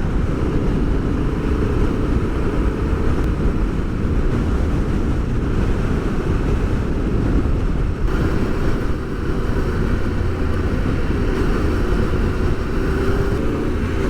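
Adventure motorcycle running steadily on the road: a continuous engine drone with rushing wind noise.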